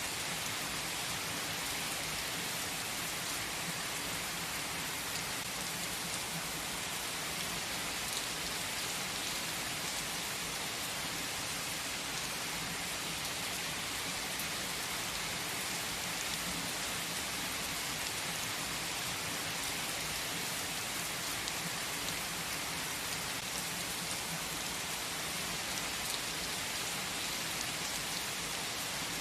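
Rain falling steadily: an even, unbroken hiss with faint scattered drop taps and no thunder.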